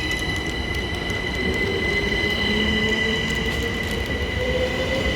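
Class 387 Electrostar electric multiple unit moving through the platform: a low rumble of wheels on rail, with steady high-pitched whines and a lower tone that rises slowly.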